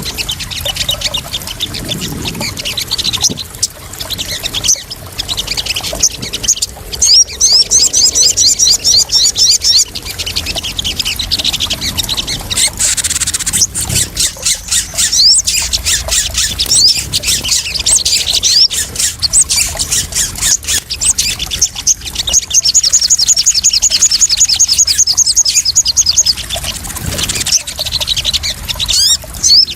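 Small bird calling in rapid, high trills of repeated notes and shorter chirps, a lure call for the sogon. Splashing water runs under the calls.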